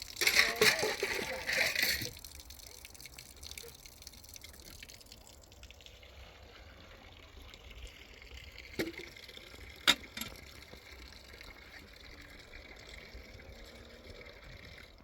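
Water running, loud for about the first two seconds and then fainter, with two sharp knocks about a second apart midway.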